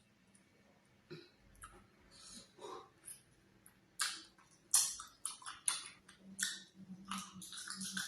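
Close-miked wet mouth sounds of eating ogbono soup with oatmeal fufu: irregular sticky smacks, clicks and chewing. They come sparsely at first and grow frequent and louder from about halfway through.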